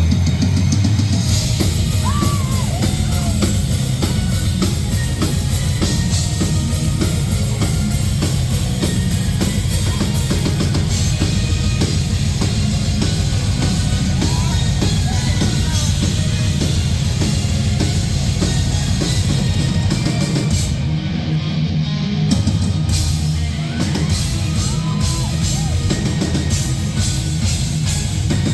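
Symphonic metal band playing live at full volume: a pounding drum kit with heavy bass drum under a thick, bass-heavy mix of distorted guitars and bass.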